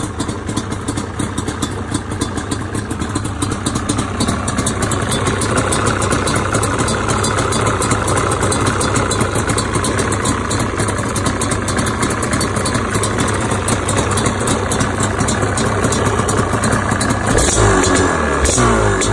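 Yamaha Banshee's two-stroke parallel-twin engine idling, with an idle that sounds wrong to the owner. Near the end the revs rise and fall briefly.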